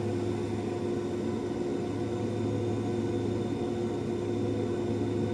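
Steady drone of a ship's machinery: a constant hum with several fixed tones, unchanging in level.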